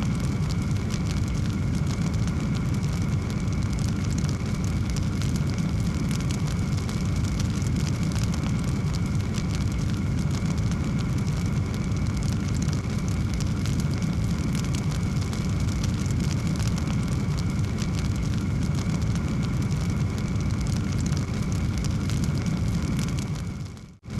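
Wood fire in a fireplace crackling, with quick small pops over a steady low rumble of the flames. It fades out briefly just before the end, then comes back.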